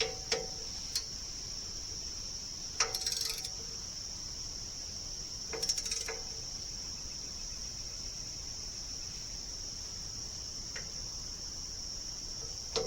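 Steady high-pitched insect chorus, broken by sharp metallic clinks and taps of tools and hardware on the sawmill as a fitting is tightened, with a short rattling clatter about three seconds in and another about six seconds in.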